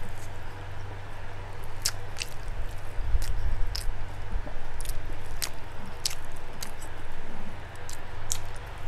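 Close-miked chewing of soft pork and rice, with about ten sharp wet mouth smacks scattered through, over a steady low hum.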